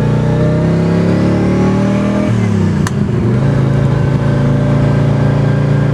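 Twin-turbo big-block V8 of a custom 1967 Chevelle SS accelerating: the engine note climbs for about two seconds, drops sharply as it shifts up a gear, then pulls on more steadily. A sharp click a moment after the shift.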